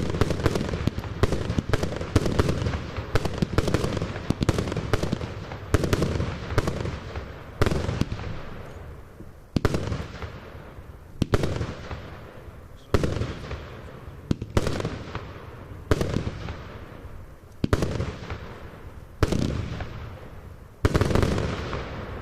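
The 'Passion Flower' firework from Royal Fireworks going off. For the first eight seconds or so come rapid sharp reports, several a second; after that, single loud bangs about every second and a half, each trailing off in a fading crackling hiss.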